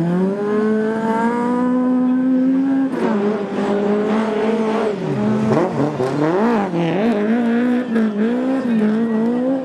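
Rally car engine at high revs. It climbs steeply at the start and holds high for about three seconds, then the revs drop and rise again several times, wavering up and down.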